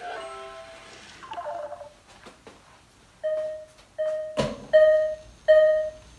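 Electronic beeps from a Sharper Image virtual LED space pong game: a short electronic jingle at the start, then a steady run of identical single-pitch beeps about one every three-quarters of a second from about three seconds in. A sharp knock comes about four and a half seconds in.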